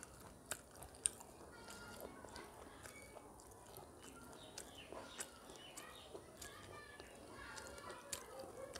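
Close-up eating sounds: chewing and wet mouth noises, with fingers squishing rice and curry against a steel plate and scattered small clicks, the sharpest about a second in.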